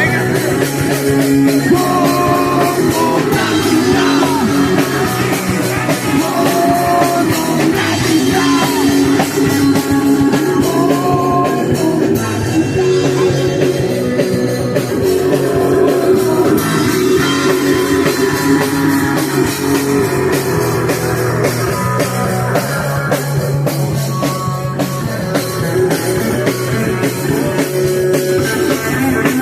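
Live punk rock band playing: electric guitar and drum kit pounding out a fast, steady groove, loud throughout.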